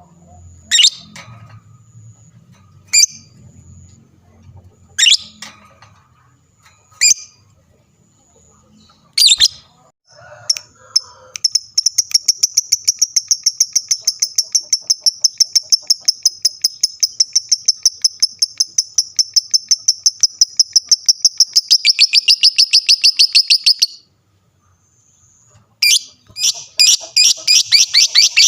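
Lovebird giving single sharp chips about every two seconds, then breaking into a long, fast, rattling trill of about five notes a second that runs for some twelve seconds, stops abruptly, and starts again near the end. This is the long-duration 'ngekek' chatter that follows 'ngetik' chips, used as a lure to set other lovebirds singing.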